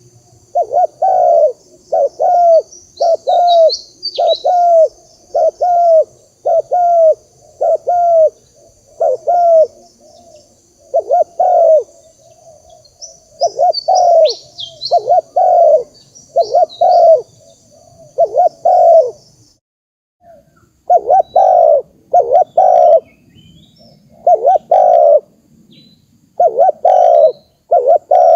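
Spotted dove cooing over and over, a long run of short low coos, with small-bird chirps high above a few times and a steady high insect-like hiss that stops about two-thirds of the way through.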